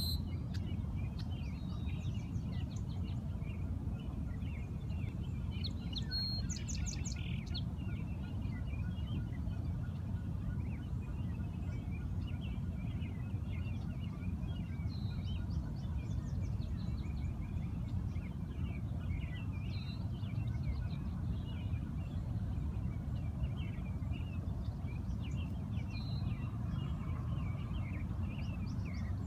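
Small birds chirping and singing throughout, with a few clearer calls now and then, over a steady low rumble.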